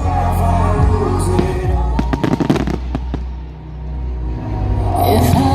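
Fireworks bursting, with a quick string of sharp bangs and crackles about two seconds in, over loud pop music played for the display.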